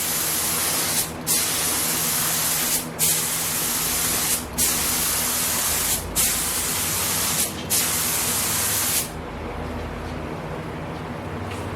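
Air paint spray gun laying down a tack coat: a loud hiss in long passes, with the trigger let off briefly about every one and a half seconds between passes. The spraying stops about nine seconds in, leaving a steady low hum.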